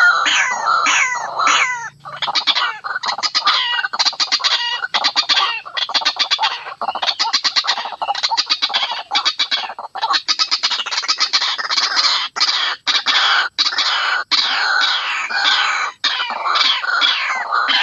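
White-breasted waterhen (ruak-ruak) calling: loud, rapid runs of sharp repeated clucking notes, with curved sweeping notes in the first two seconds and again near the end.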